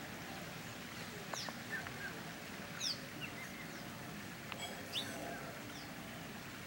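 Birds calling: a handful of short, high, falling chirps, the loudest about three and five seconds in, over a steady outdoor hiss.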